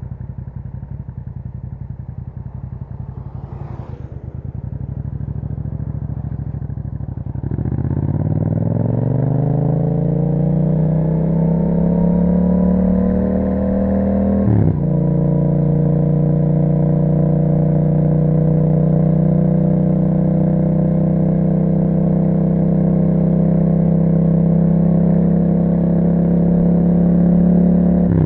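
2021 Yamaha MT-07's 689 cc parallel-twin engine through an Akrapovic exhaust, running at low revs and then accelerating with a rising pitch for about seven seconds. About halfway through it drops briefly at an upshift, then holds a steady pitch at cruising speed.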